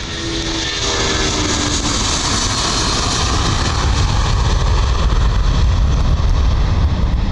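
Boeing 757-300 jet engines passing close: several whining tones fall in pitch over the first two seconds. A heavy, deep rumble then builds and grows louder toward the end.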